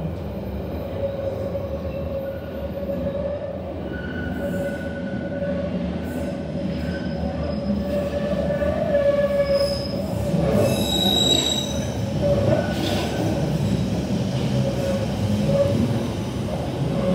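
Train running through the station with a continuous rumble and its wheels squealing on the rails: one steady squeal tone throughout, with sharper, higher squeals joining about two-thirds of the way in.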